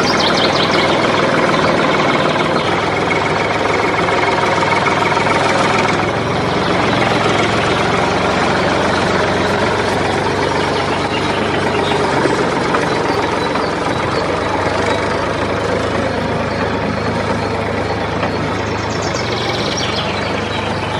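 Tractor engine running steadily, with a low chugging rattle; the sound dips slightly about six seconds in.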